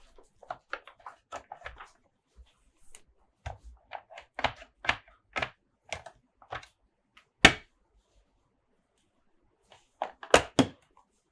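Plastic toy parts handled close to the microphone: a run of light clicks and taps, a sharp knock about seven and a half seconds in, and a few louder knocks near the end.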